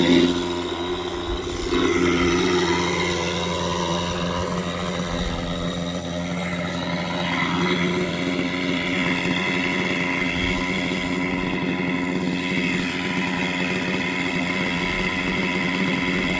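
Nitro (glow-fuel) engine of a 1980s German RC helicopter running steadily, its pitch shifting slightly about two seconds in and again around eight seconds.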